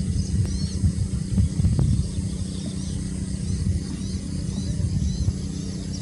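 Small birds chirping repeatedly, short high calls every half second or so, over a steady low rumble.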